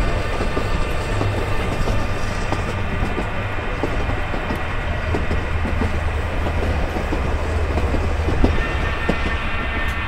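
Sleeper carriage of a passenger train running along the rails, heard from inside: a steady low rumble with scattered knocks and rattles from the wheels and carriage.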